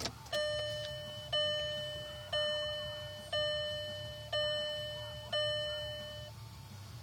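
Jetta Mk4 dashboard warning chime: a click, then six identical gong-like tones about a second apart, each one struck and fading away.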